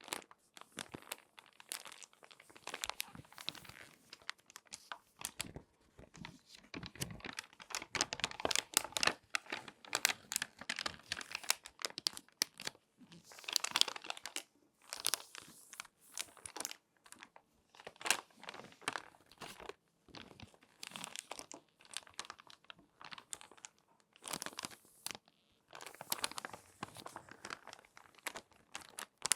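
Glossy magazine pages being folded and creased by hand, with close, irregular crinkling and crackling that comes in clusters and pauses briefly between folds.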